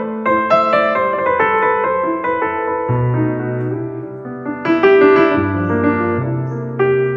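Background piano music: a melody of struck notes over changing bass notes.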